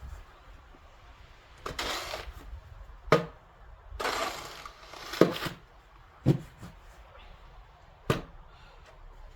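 Snow shovel scraping through snow twice, with about five sharp knocks of the shovel in between, the loudest about three seconds in and again around five seconds.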